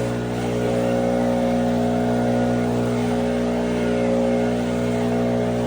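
Small engine running at a steady, unchanging speed.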